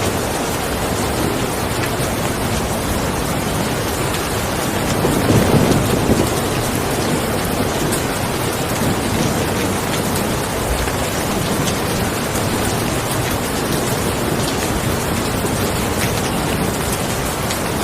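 Steady rain falling, with a brief low rumble of thunder about five seconds in.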